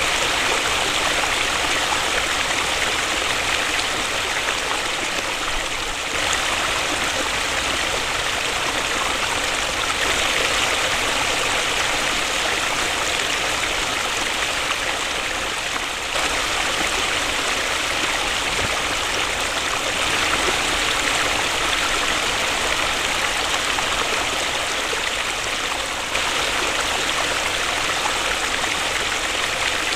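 Waterfall: a steady rush of falling water, with small shifts in level and tone every few seconds.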